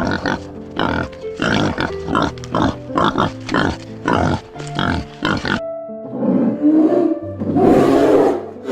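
An animal grunting in short bursts, about two a second, over background music. About six seconds in it gives way to a louder, longer, rough animal call.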